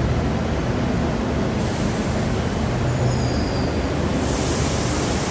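Train running with a steady low rumble and hum. A hiss comes in about one and a half seconds in and gets stronger near the end.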